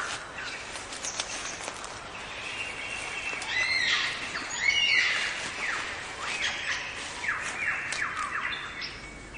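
Superb lyrebird singing: a varied run of loud whistled notes, then a series of quick downward-sweeping notes in the second half.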